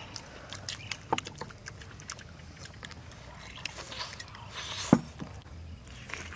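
A person chewing and biting into a bell pepper stuffed with egg, with wet mouth smacks and scattered small clicks. One sharp click stands out about five seconds in.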